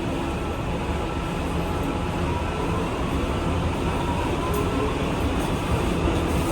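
New R211A subway car running between stations, heard from inside the car: a steady rumble of wheels and running gear with a faint whine over it.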